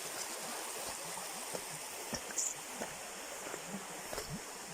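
Steady rushing hiss like flowing water, with a few faint scattered clicks and a brief high chirp about two and a half seconds in.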